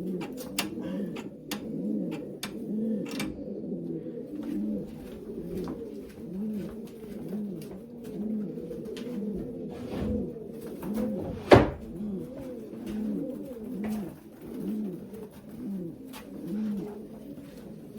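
Racing pigeons cooing in a loft: a steady run of low, rising-and-falling coos about once a second, several birds overlapping, with light clicks and scuffles throughout. One sharp knock stands out about midway.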